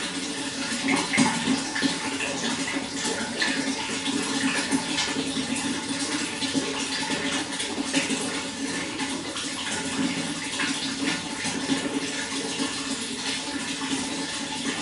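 Running water flowing steadily, with continuous rushing and small splashes and gurgles throughout.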